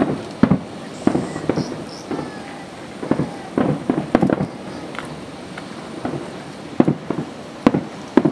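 Aerial fireworks shells bursting: a rapid, irregular run of sharp bangs, each with a short echoing tail, thinning out briefly about five to six seconds in before picking up again.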